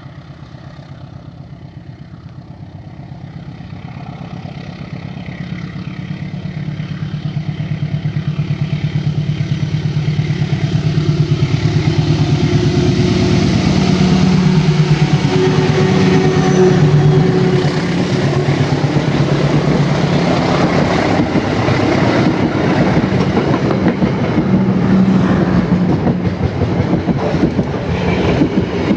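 CC201 diesel-electric locomotive approaching, its engine drone growing steadily louder over about twelve seconds and dipping in pitch as it passes close. The passenger coaches behind it follow, with steady rumbling and clacking of wheels on the rail joints.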